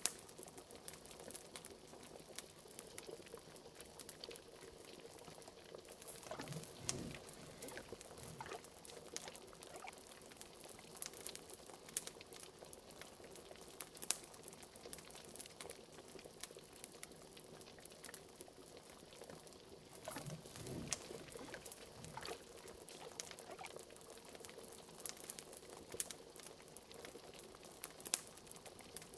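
A bubbling cauldron: liquid bubbling with many small sharp pops and crackles throughout, and two deeper gloops, about a quarter of the way in and again about two-thirds of the way in.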